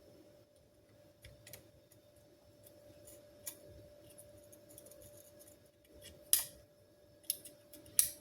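Six or so sharp metallic clicks from small hand tools at a repair bench, the loudest about six seconds in, over a faint steady hum.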